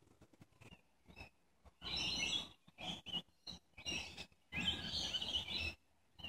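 Birds chirping in several short bursts, the longest about a second.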